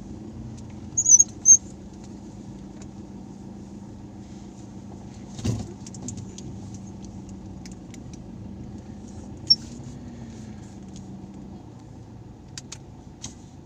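A parked vehicle's engine idling steadily, a low even hum, with a few short high chirps and a single thump about five and a half seconds in.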